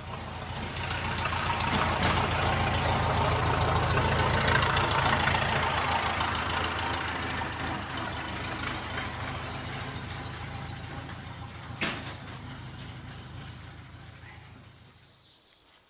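A motor vehicle's engine running with a steady low hum, growing louder over the first few seconds and then slowly fading. The hum cuts off shortly before the end, and there is a single click a little before that.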